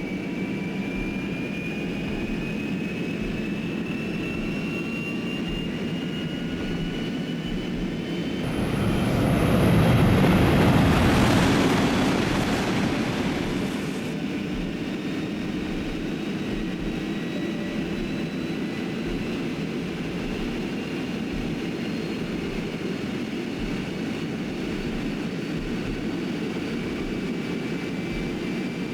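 Shanghai maglev train running at speed: a steady rush with a thin whine that slowly rises in pitch. A louder rush swells and fades over a few seconds about ten seconds in.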